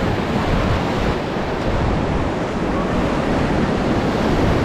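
Steady rush of river whitewater around a raft running a rapid, with wind buffeting the microphone.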